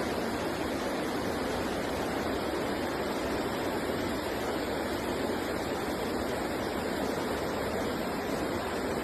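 Steady rushing noise of running water, with no change in pitch or rhythm.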